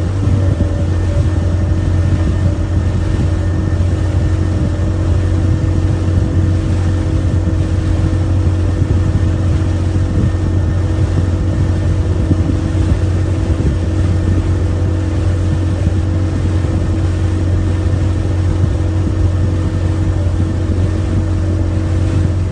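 Motorboat engine running steadily at a constant speed, with a strong low hum and a few steady tones above it.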